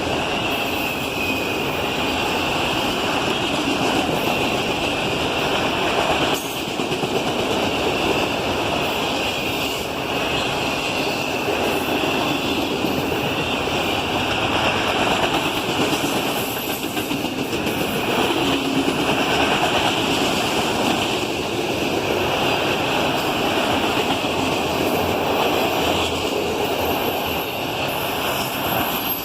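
Norfolk Southern freight train passing at speed: the steady, continuous noise of rail cars rolling by on the track.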